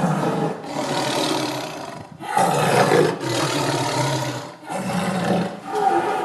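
A large wild animal roaring: a run of about six rough, noisy roars, each about a second long, one after another with short breaks.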